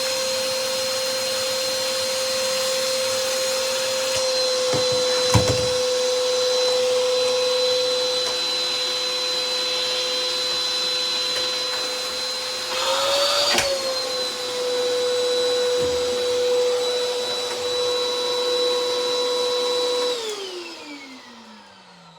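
Hoover bagless upright vacuum cleaner running with a steady high whine, the pitch rising briefly about two-thirds of the way through, with a few knocks. Near the end it is switched off and the motor winds down with a falling whine.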